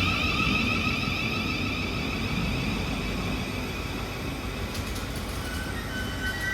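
Class 700 Thameslink electric train passing through the station, its electric traction whine sounding over a low rumble and fading as it goes by. A few short higher tones come in near the end.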